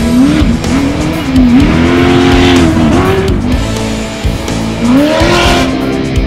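Off-road race car engine revving hard, its pitch rising and falling several times as the throttle is worked, over background music.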